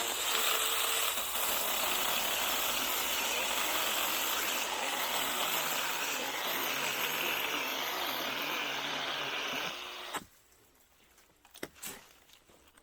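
A small 6-inch battery-powered mini chainsaw running steadily as it cuts through a Chinese tallow trunk. Its chain is heavily used and stretched. The saw stops abruptly about ten seconds in, followed by a few faint clicks.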